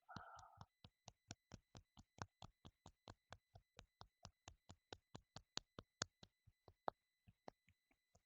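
Soft, quick claps of the hands on the face in qigong self-tapping, an even patter of about four to five light pats a second.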